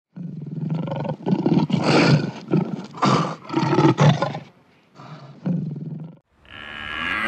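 An animal calling in a rapid series of deep, rough pulses, with a short break a little before five seconds in; a cow starts to moo right at the end.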